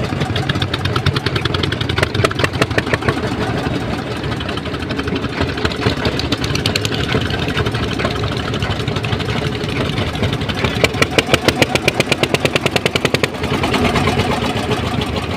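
A boat's diesel engine running steadily with a rapid pulsing beat. The beat grows sharper and louder for a couple of seconds about eleven seconds in.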